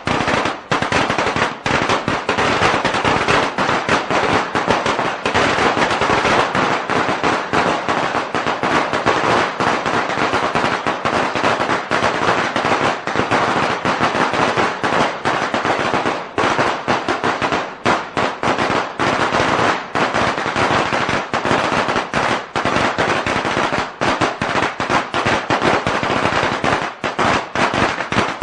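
A long string of Chinese firecrackers going off in a dense, rapid, unbroken rattle of loud cracks.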